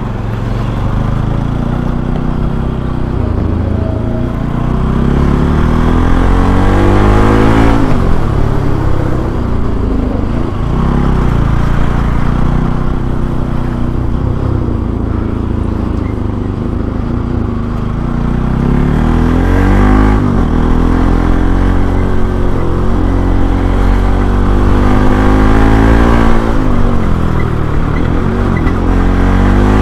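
Bajaj Pulsar NS200's single-cylinder engine revving up and down as the bike accelerates and slows, its pitch rising and falling several times.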